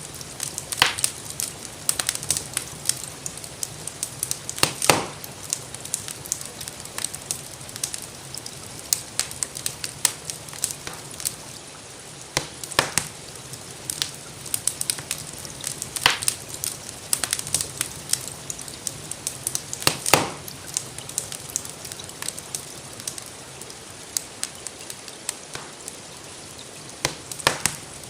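Wood fire crackling in a fireplace: irregular sharp pops and snaps, a few louder ones scattered through, over a steady soft hiss of rain.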